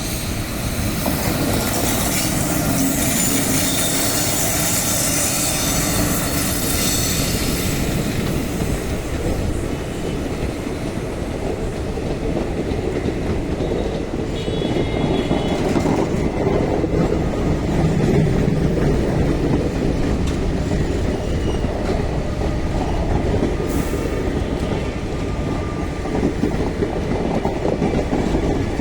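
Passenger express train running through the station at speed: a steady rumble and clatter of coach wheels over the rails, with a bright hiss and wheel squeal over the first several seconds.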